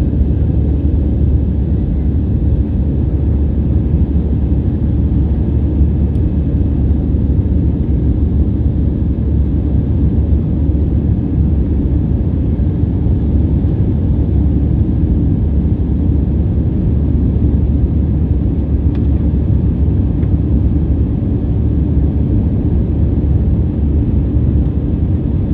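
Airliner's steady low engine rumble, even and unbroken.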